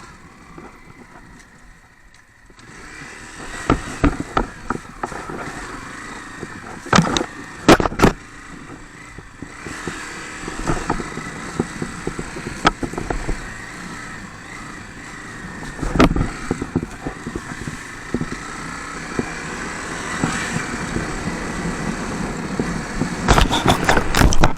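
Honda CRF250 dirt bike being ridden over rough ground: a steady running noise with a scatter of sharp knocks and rattles, heaviest about 7 to 8 seconds in, around 16 seconds and near the end.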